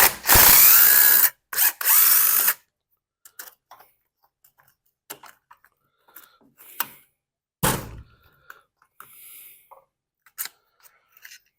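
Cordless drill/driver running in two short bursts, its motor whine shifting in pitch, then scattered clicks and knocks of small metal parts being handled.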